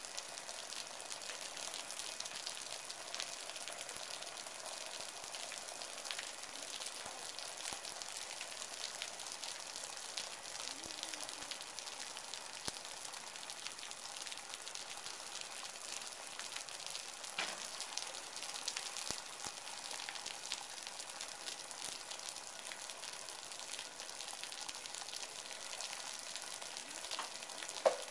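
Steady rain: an even hiss with the odd louder drop ticking close by.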